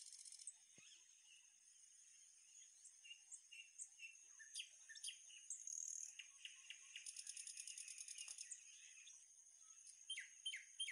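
Faint birds chirping and twittering, with a rapid trill about seven seconds in, over a steady high-pitched drone.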